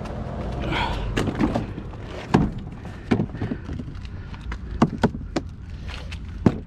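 Clicks and knocks from a light, hollow truck being handled and turned over while someone searches it for a battery, about a dozen sharp taps spread unevenly over a steady low rumble.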